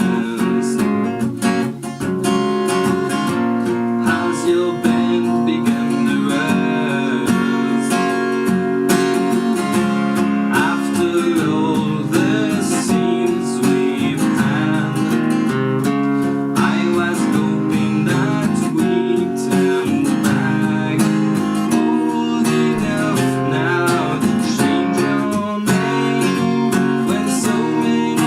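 Acoustic guitar strummed and picked steadily, a newly handmade instrument.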